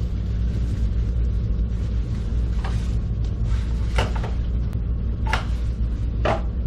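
Short knocks, about four, roughly a second apart, as a shim is set under an electric water heater tank to level it, over a steady low hum.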